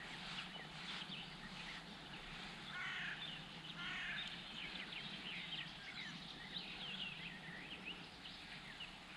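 Birds calling around the water: many short chirps throughout, with two longer, harsher calls about three and four seconds in.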